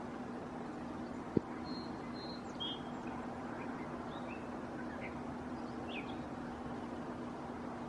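Faint, brief bird chirps scattered through the middle, over a steady background hiss with a low hum. A single sharp click sounds about a second and a half in.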